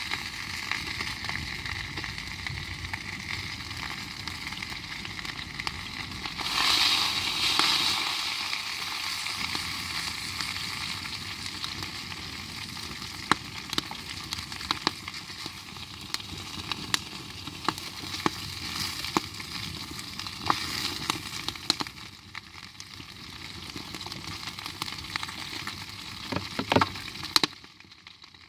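Cooking over a campfire: a steady hiss with many sharp crackles and pops, swelling louder for a second or two about seven seconds in, then dropping off abruptly just before the end.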